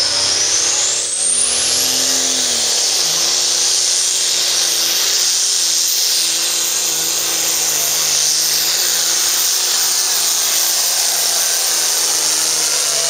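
Turbocharged diesel engine of a Pro Farm pulling tractor running hard, its turbo whistle rising steeply over the first two seconds and then holding a steady high pitch above the engine's wavering drone.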